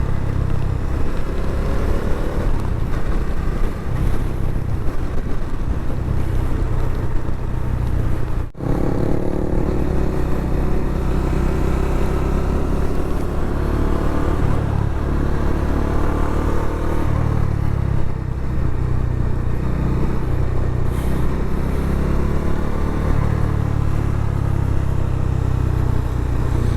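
Bajaj Dominar motorcycle engine pulling steadily on the move, its pitch rising and falling with the throttle, under heavy wind rumble on the microphone. The sound drops out for a moment about eight seconds in.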